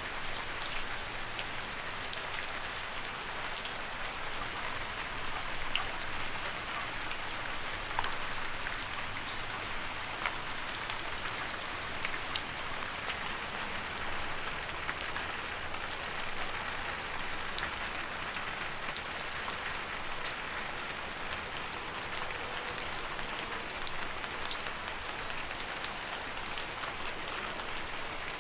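Steady rain falling, an even hiss with many individual drops striking close by, some louder and sharper than the rest.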